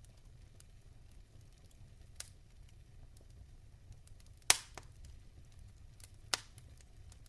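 Wood fire in a fireplace crackling and popping: a low steady rumble of the flames with scattered small ticks and three sharp pops, the loudest about halfway through and another near the end.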